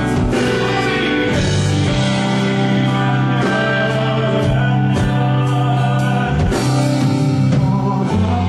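Live band music: electric guitar, bass, drums and piano playing a slow section of the song, with held chords over a steady bass line and occasional drum hits.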